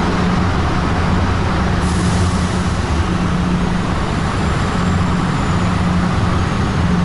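Diesel engine of a heavy goods truck running steadily as it moves off across the ferry's vehicle deck.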